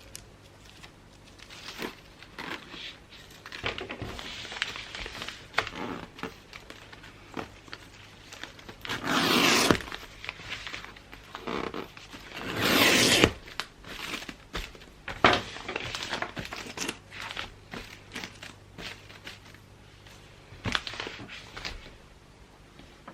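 Gift wrapping: wrapping paper crinkling and rustling under the hands, with light taps and clicks. Two louder ripping sounds, about a second each, come a little before and a little after the middle.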